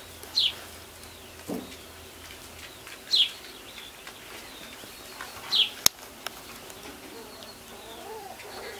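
A bird calling: a short, high, falling whistle, three times at about two-and-a-half-second intervals. A single sharp click comes about six seconds in.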